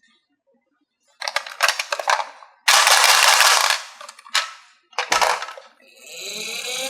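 Marbles and pieces clattering down a wooden HABA marble track: after a quiet second, rapid rattling runs, a loud dense clatter, then a few separate clacks. Near the end a steadier rolling noise builds up.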